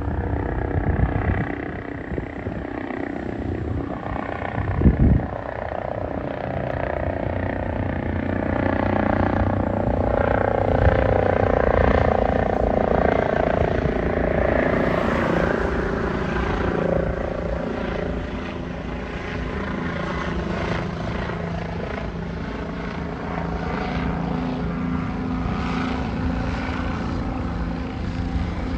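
Medical helicopter's rotor and engine running steadily, growing louder about ten to fourteen seconds in and then easing off. A single short thump comes about five seconds in.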